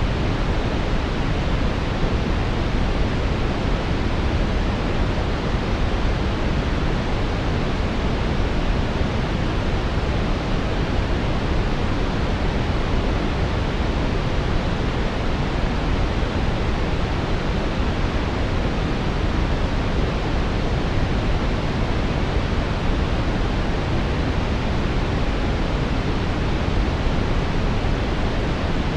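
Steady, unchanging brown noise: a deep, even rushing hiss weighted toward the bass, with no events or variation.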